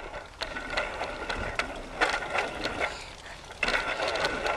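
A child's bicycle being ridden, rattling and clicking irregularly over a steady rolling noise.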